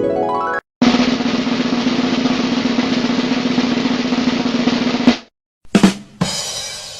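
A snare drum roll lasting about four seconds, then a drum hit and a cymbal crash that rings and fades away: a drum-roll sound effect.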